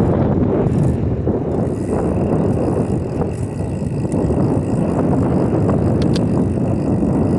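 Steady rumble of a bike in motion: tyres rolling over pavement and wind on the microphone, with a faint click about six seconds in.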